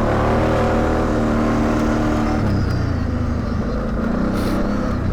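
ATV engine under throttle, revving up, holding, then easing off to a lower steady speed about halfway through.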